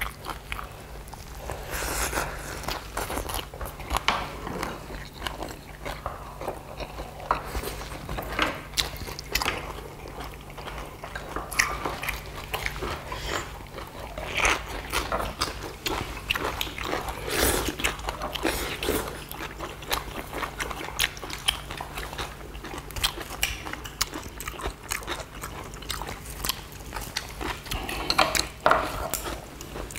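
People chewing and crunching mouthfuls of leaf wraps (fresh lettuce and greens around rice and duck bulgogi), with many short crisp crunches throughout.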